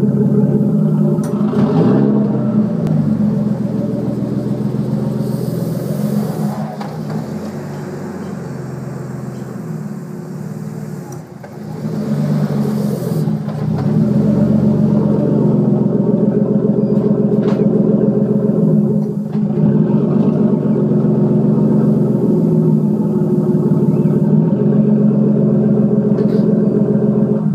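Nissan R32 Skyline driving at low speed, its engine running with the pitch rising and falling as it pulls away and cruises, with a few sharp clicks heard over it. The owner places the clicking under the rear of the car and suspects the HICAS rear-wheel steering or the differential.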